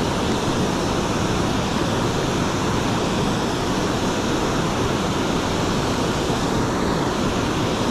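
Steady, loud rush of water pouring over a spillway.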